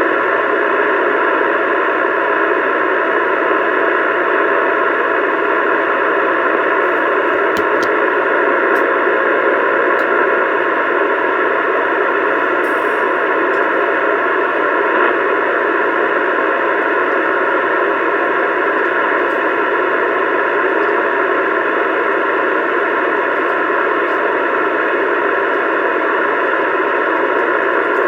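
CB radio speaker putting out a steady, even hiss of static, with no voice on the channel.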